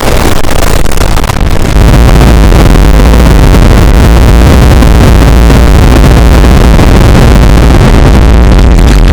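Extremely loud, heavily distorted explosion sound effect: a harsh wall of noise across all pitches, with a deep rumble that jumps up about two seconds in and then holds steady.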